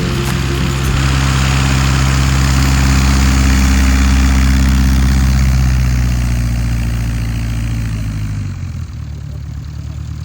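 Jodel D182 light aircraft's piston engine and propeller running at a steady pitch, growing louder to a peak about four seconds in and fading after about eight seconds as it passes.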